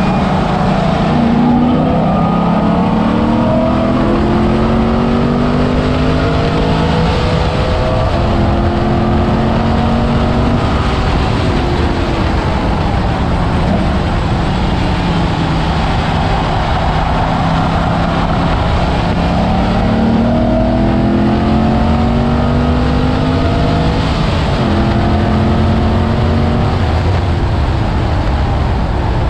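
Car engine under hard acceleration, its pitch climbing in long pulls and dropping back at each upshift, several times over, with steady wind and tyre noise underneath.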